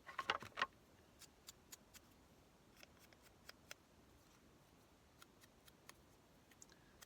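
Paper and craft supplies handled on a work table: a quick cluster of crisp clicks and rustles at the start, then scattered light ticks.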